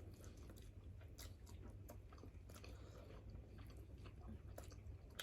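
Faint chewing and small mouth clicks of someone eating grilled fish, over a low steady hum.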